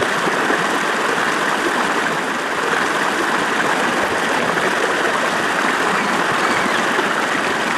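River water flowing around a bamboo raft, a steady rushing noise without break.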